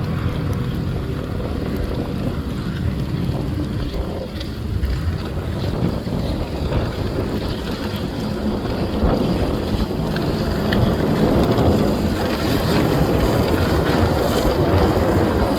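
Wind buffeting the microphone over a motorboat running on the water, the boat noise growing louder about ten seconds in as it passes closer.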